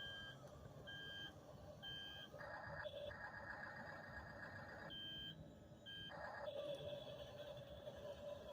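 Toy RC track-type tractor's reversing beeper, a short beep about once a second with a break of about two seconds in the middle, over a steady faint hum.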